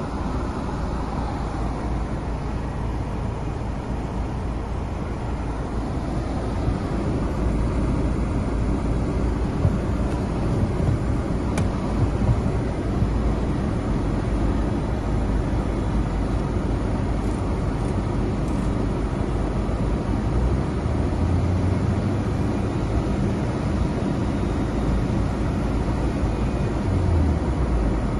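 Mercedes-Benz CLC200 Kompressor on the move: a steady wash of engine and road noise, heaviest in the low end.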